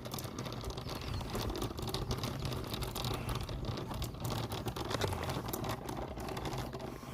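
Steady outdoor background noise with a low rumble and many small scattered clicks and crackles.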